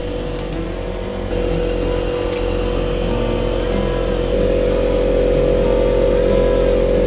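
A motor vehicle running with a steady droning tone, getting louder in two steps.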